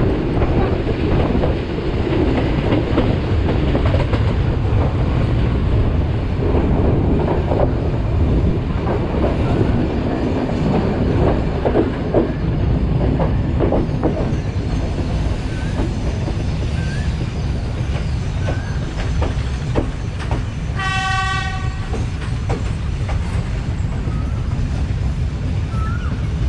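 Passenger train running on the rails, heard from a carriage window: a steady rumble of the wheels with irregular clicks over the rail joints. A short train horn blast sounds once, about 21 seconds in.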